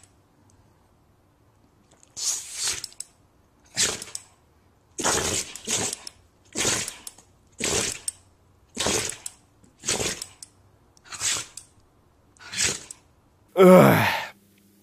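A dog sneezing over and over in a fit it cannot stop, about ten short sharp sneezes roughly a second apart. A louder, longer pitched sound follows near the end.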